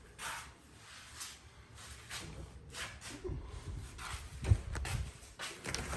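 Footsteps and rustling of a person walking, about one step every second, with a louder low thump a little past the middle.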